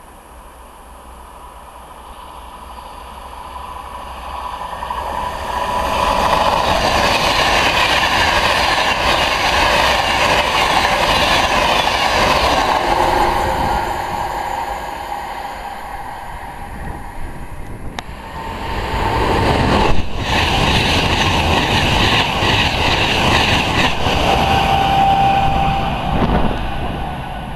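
Virgin Trains express passenger train running through at speed. The rush of noise builds from about two seconds in and stays loud, eases off in the middle, then swells again with a sharp bang about two-thirds of the way through. It drops away right at the end.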